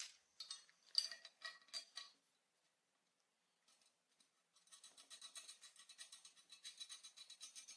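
Small metal parts and hand tools clinking: a handful of light taps in the first two seconds, then after a pause a rapid, even run of small ticks, about eight a second, for roughly three seconds.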